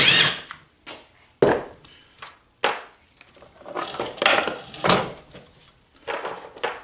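Power driver spinning out an engine's sump bolts in a short whirring burst, followed by metal clinks and knocks as the bolts and tools are handled and set down.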